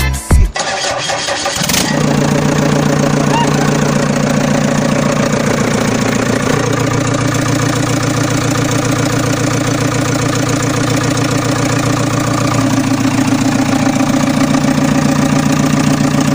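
A vehicle engine starts about two seconds in, then runs steadily at idle with an even drone.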